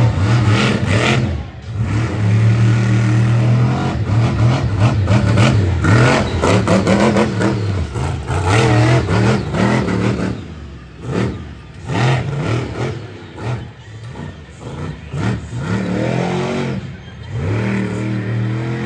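Monster truck engine revving hard and easing off in repeated surges, with sharp clattering knocks over it. The engine dips quieter about two-thirds of the way through, then revs up again near the end.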